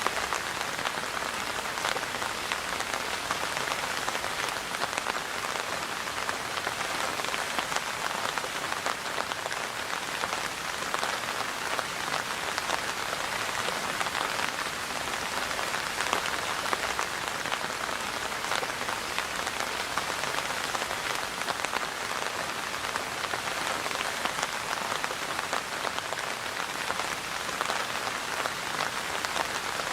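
Steady rain falling and pattering on a surface, with many small drop impacts in an even hiss.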